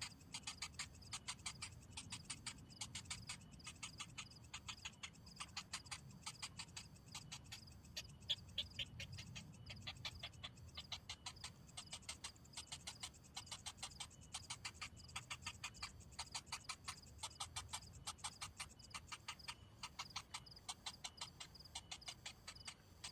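Bittern chicks begging with a rapid, steady series of sharp ticking calls, about four to five a second, which the title takes for hunger while the parent brings no food.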